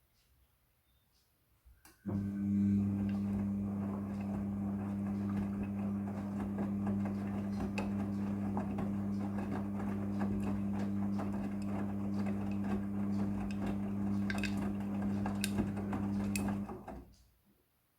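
Midea front-loading washing machine: a steady mains hum with water rushing starts suddenly about two seconds in, with small clicks and rattles over it, and cuts off near the end.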